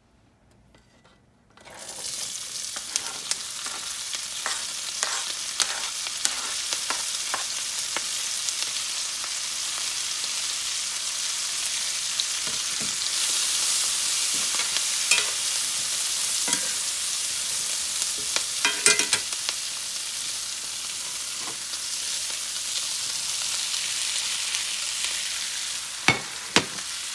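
Chopped vegetables sizzling in a hot cast-iron skillet of butter and oil. The frying starts suddenly about two seconds in as they go into the pan, then runs steadily while a spoon stirs and scrapes against the iron. There are a couple of sharp knocks near the end.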